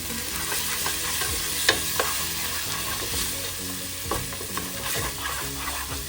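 Onions and sauce sizzling in a frying pan as they are stirred, with the spoon knocking against the pan a few times.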